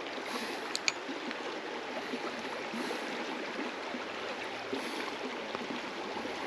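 Steady rush of a small river's flowing water, with a couple of short sharp clicks about a second in.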